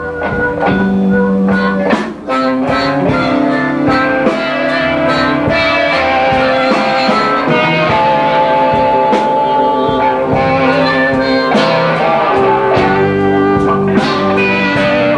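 Blues band playing live: electric guitar lead over bass and drum kit, with no singing.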